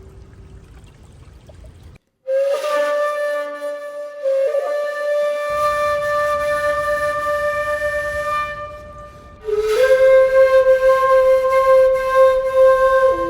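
Background music: a slow flute melody of long, held notes. It starts after a short break about two seconds in, and a louder new note begins about nine and a half seconds in.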